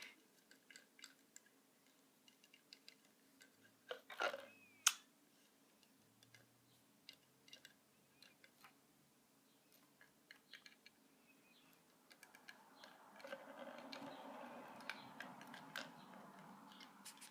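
A budgie's beak and feet making faint, scattered clicks and taps on things on a table, with a louder knock about five seconds in. From about twelve seconds in there is a soft rustling with quick ticks, like the bird nibbling at something.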